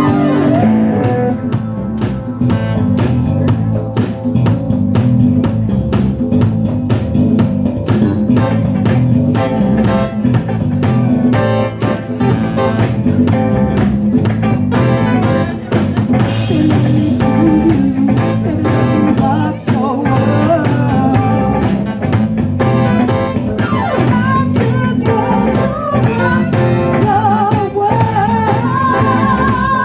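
A band playing a song: drums keeping a steady beat under guitar, with singing.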